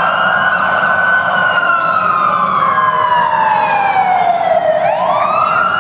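Siren wailing: its pitch falls slowly for about four seconds, then sweeps back up near the end, echoing in a road tunnel.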